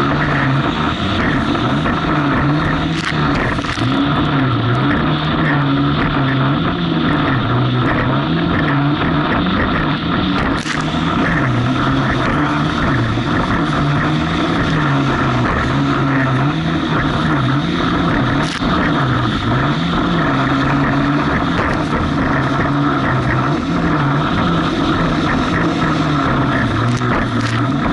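Jet ski engine running under way through choppy waves, its note rising and falling over and over every second or two, over a constant rush of wind and water.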